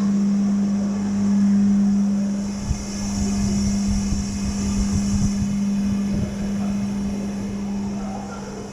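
Steady low machine hum at one constant pitch, with wind buffeting the microphone for a few seconds in the middle.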